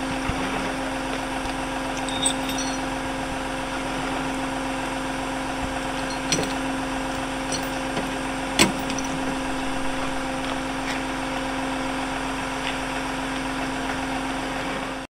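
Vehicle engine running steadily, with a constant hum and a few faint clicks.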